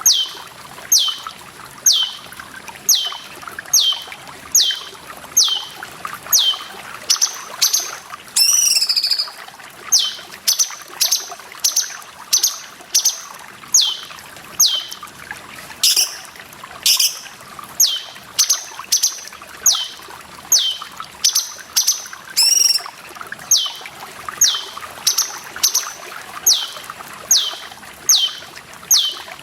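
Cucak cungkok calling over and over, a sharp falling note about once a second, broken twice by a different warbling call. Running water trickles steadily underneath.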